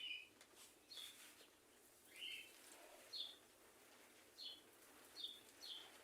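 Faint, repeated short chirps of a small bird, about eight in all, each falling slightly in pitch, spaced unevenly.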